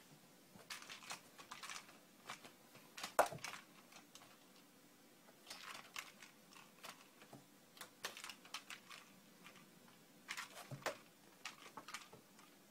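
Faint, irregular scratching, rustling and tapping of a cat's paws as it scrabbles and bats at a mouse, with one louder knock about three seconds in.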